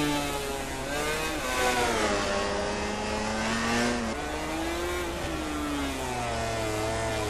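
MotoGP racing motorcycles' 1000 cc four-cylinder engines revving hard, their pitch climbing and falling through gear changes and corners, with more than one bike heard at once.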